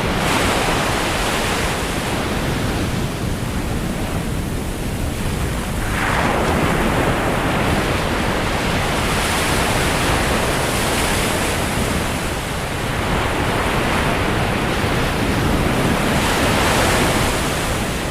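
Sea waves breaking on the shore: a continuous wash of surf that swells as waves break about 6 seconds in and again near the end. Wind buffets the microphone underneath.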